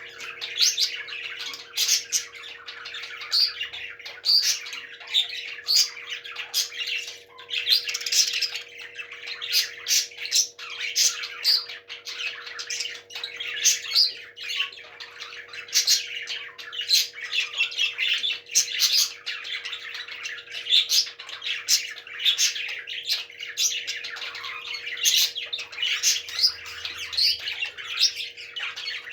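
Parrots chirping and squawking in a dense, continuous stream of short, sharp calls. A steady low hum runs underneath.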